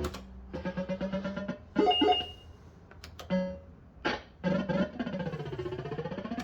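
Bell-Fruit Wild Cats System 85 fruit machine playing its electronic sound effects: runs of quick beeping notes, a couple of sharp clicks about three seconds in, then a tone sweeping down and back up.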